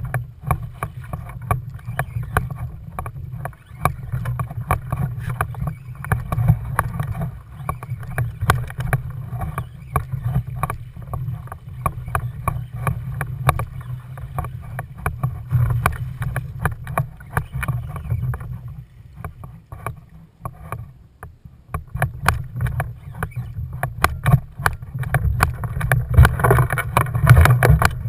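Steady low rumble of wind on the microphone, with frequent irregular clicks and knocks of handling and gear against a kayak. It grows louder in the last couple of seconds.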